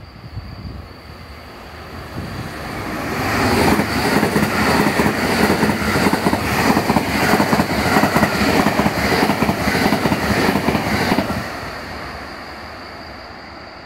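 JR West Special Rapid electric train passing through at speed without stopping. Its running noise builds over a couple of seconds, stays loud for about seven seconds with a rapid clatter of the wheels, then fades away as it leaves.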